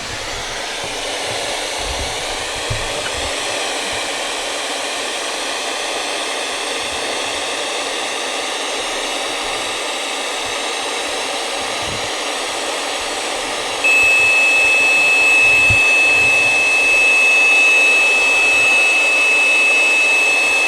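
Spirit box (frequency-sweeping radio) hissing with a steady wash of static. About two-thirds of the way through, a steady high-pitched electronic tone joins it, and the level rises.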